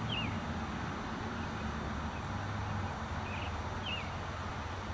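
A few short, high bird chirps, one right at the start and two more about three and four seconds in, over a steady outdoor background with a low hum.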